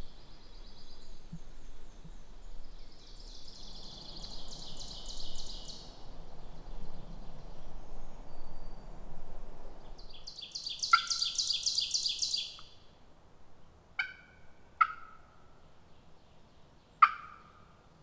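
Birds calling in the woods: two rapid high-pitched trills, the second louder, then three short, sharp calls that drop in pitch, the last the loudest.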